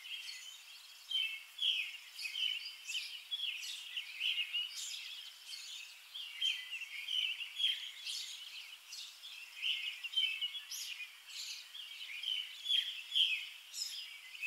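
Small birds chirping, many short high calls overlapping one another.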